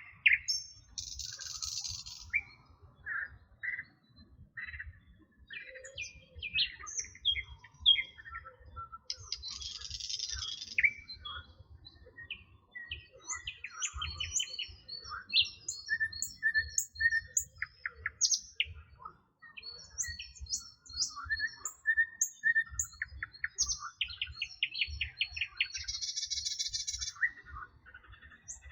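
Several songbirds singing and chirping, with short whistled notes and trills overlapping. Three times a dense, buzzy, rattling phrase rises over them.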